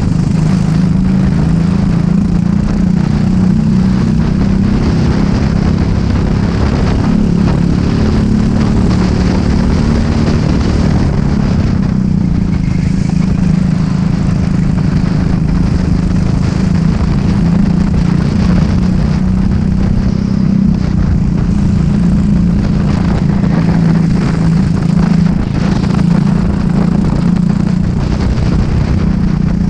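Racing kart engine running hard at race pace, its pitch holding high and wavering slightly as the throttle eases and opens again through the corners.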